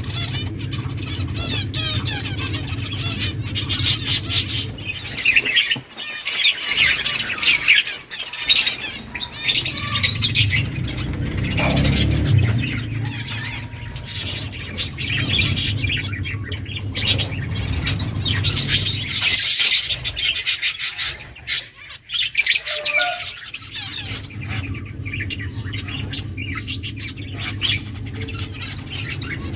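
Several small finches chirping and calling in quick overlapping clusters, with short busy bursts and brief lulls, over a low steady hum.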